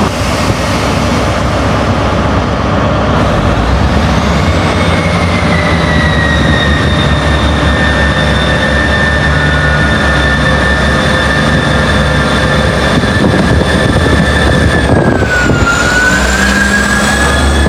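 A train running close by at a station platform: a steady low engine hum with high whining tones that slide slowly down in pitch, then dip and recover near the end.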